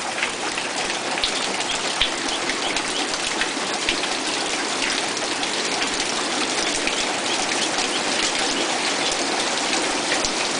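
Heavy rain falling outside: a steady hiss peppered with the small ticks of individual drops striking a surface.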